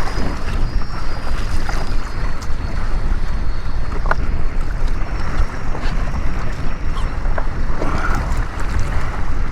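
Strong wind buffeting the microphone, with choppy sea water around a jet ski and a few faint clicks.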